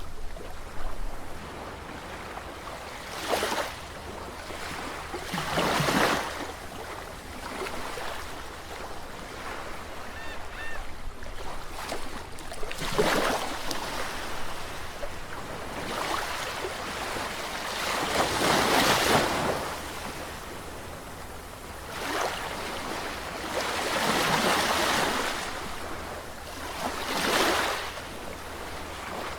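Sea waves washing in, swelling and falling away every few seconds, with a steady hiss of surf in between.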